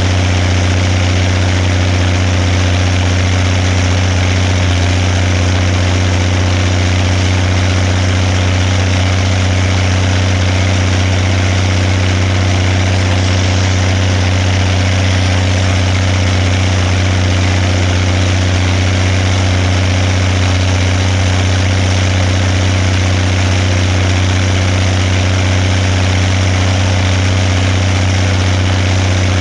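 Zetor 16145 tractor's six-cylinder diesel engine running at a steady speed, with a strong, even low hum that does not change.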